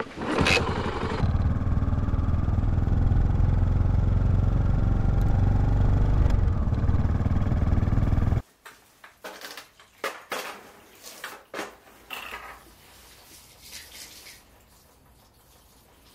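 Yamaha SR400's single-cylinder engine kick-started, catching about a second in and running steadily for about seven seconds before stopping abruptly. Scattered clicks and knocks follow, fading away.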